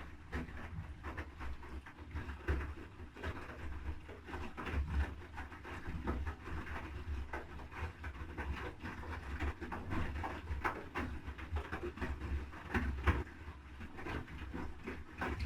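Front-loading washing machine (Haier HW80-B14979) tumbling a load in the wash phase: water sloshing and clothes turning in the drum, with irregular swishes and soft knocks over a low motor hum.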